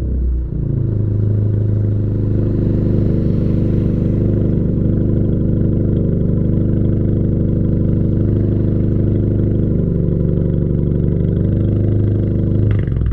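Car engine and exhaust running at a steady speed with a deep, even drone.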